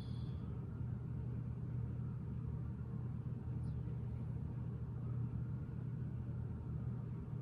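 A steady low hum or rumble, even in level, with no distinct clicks or knocks.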